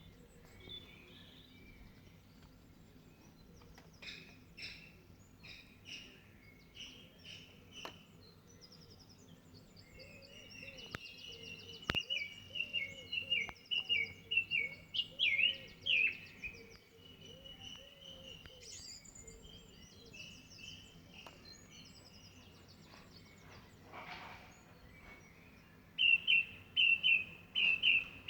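A songbird singing a varied song of short chirps and warbled phrases, ending in a run of loud, quick repeated notes.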